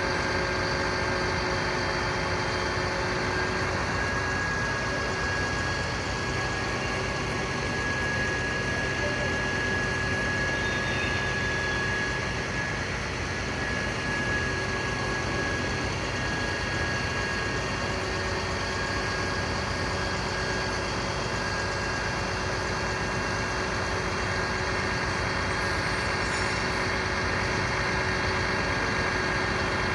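Fire truck's diesel engine idling steadily, with a thin steady whine over the engine noise.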